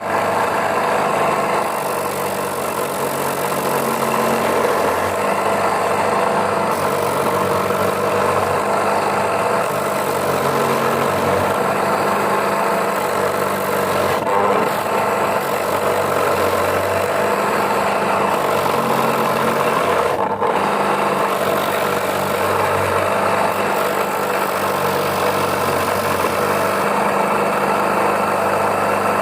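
A mini sago grating machine running steadily, its motor and grating drum making a constant mechanical drone.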